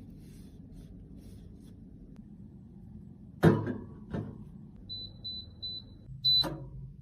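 A sharp knock of something set down hard, a smaller knock, then high electronic beeps: three short ones in quick succession and a louder one near the end together with another knock.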